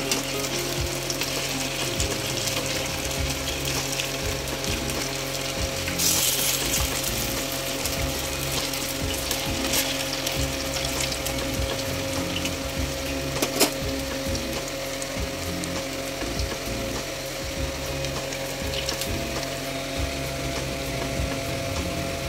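Malpua patties deep-frying in refined oil in a steel pan: steady sizzling and bubbling over a constant mechanical hum. The sizzle swells briefly about six seconds in, and there is one sharp click around the middle.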